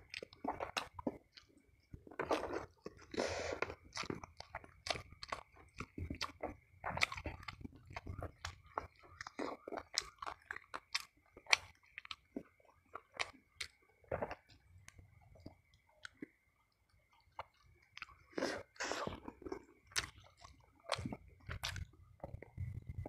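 Close-miked chewing and crunching of crispy fried snakehead fish and rice eaten by hand, with wet mouth clicks and smacks, pausing briefly about two-thirds of the way through.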